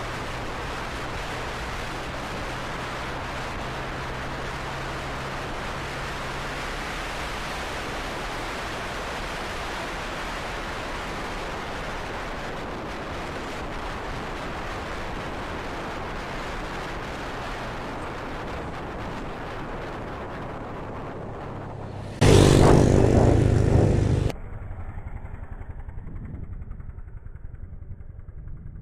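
Motorcycle being ridden: a steady rush of wind over a low engine hum. About three-quarters of the way through, a loud two-second pitched sound cuts in, then the sound drops to a quieter, duller engine.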